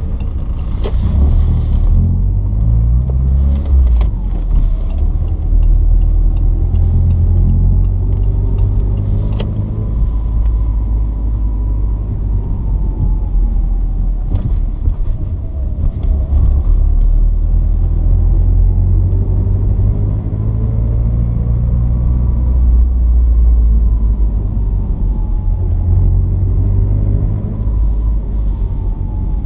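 Porsche 944's 2.5-litre four-cylinder engine running while the car drives, with a deep rumble throughout. Its pitch climbs in the first couple of seconds, then rises and falls slowly several times as the car speeds up and eases off.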